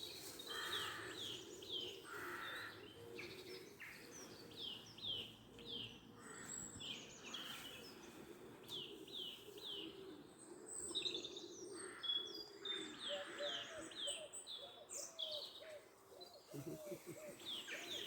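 Woodland birdsong: small birds chirping in quick series of short, falling notes throughout.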